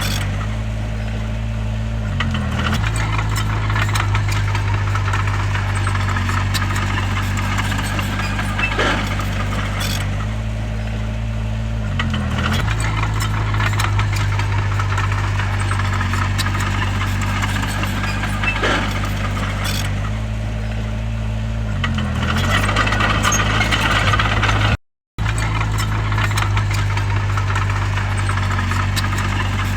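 Crawler bulldozer's diesel engine running steadily under work, its pitch sagging and recovering three times about ten seconds apart as it takes load, with scattered knocks and rattles. The sound cuts out for a moment about five seconds before the end.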